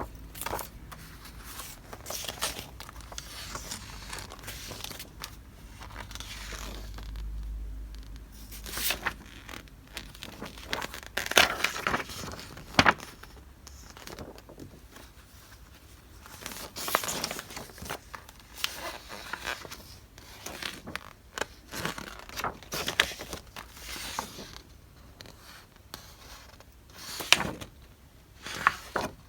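Paper goods and their packaging being handled: irregular rustling, crinkling and scraping, with sharp taps and clicks, the loudest ones about halfway through and near the end.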